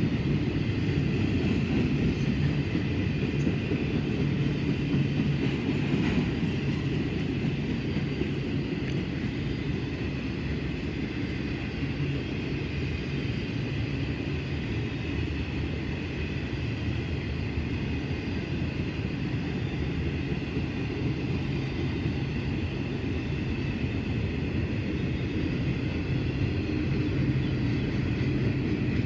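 Freight train rolling past, its cars making a steady low rumble that holds at an even level, with faint high tones above it.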